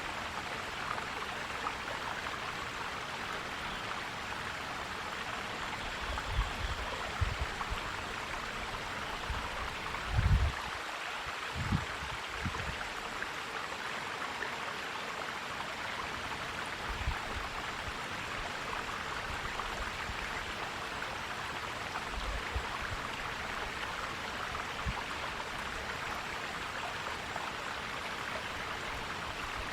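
Forest stream flowing steadily over rocks. A few short low bumps break in now and then, the loudest about ten seconds in.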